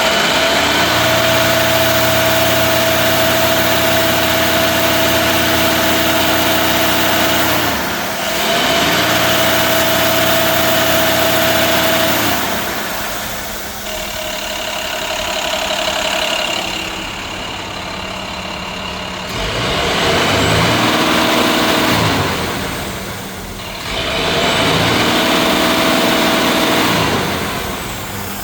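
A 2012 International 7400 truck's MaxxForce 9 diesel engine, revved up and held four times: two long holds of several seconds, then two shorter ones, dropping back to idle in between.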